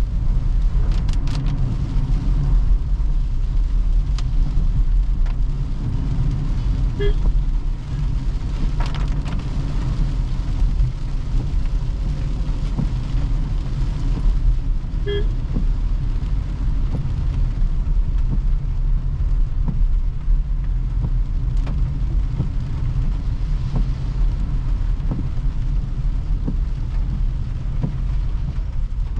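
Toyota Hyryder hybrid car driving on a wet road, with a steady low road and tyre rumble. Two brief beeps come about eight seconds apart.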